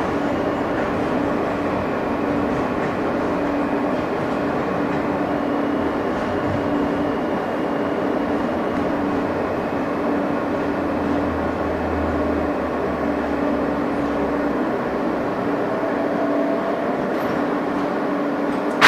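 Inside an R160 subway car in motion: steady rail and running noise with a constant motor hum, and a deeper rumble that swells for a few seconds in the middle. A short sharp knock comes at the very end.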